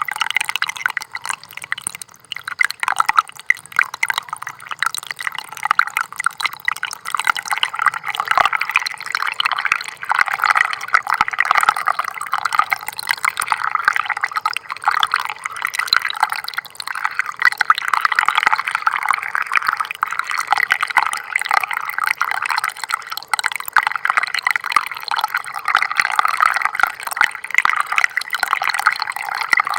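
Small stream of water trickling and babbling steadily, a dense patter of small splashes and bubbling.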